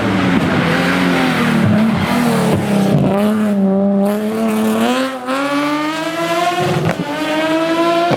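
Nissan 370Z GT+ rally car's engine under hard acceleration: the note drops, then climbs steadily, cuts briefly for a gear change near the end and climbs again.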